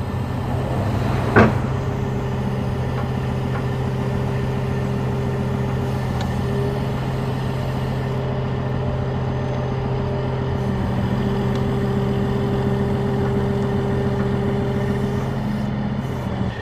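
Heavy tow truck's engine running steadily with a constant hum as its hydraulic boom is raised. A single sharp knock comes about a second and a half in.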